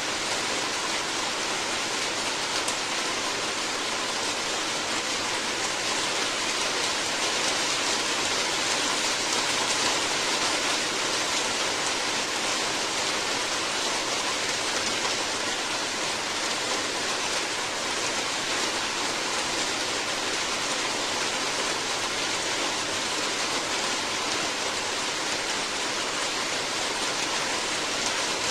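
Steady heavy rain, an even hiss with no separate drops standing out.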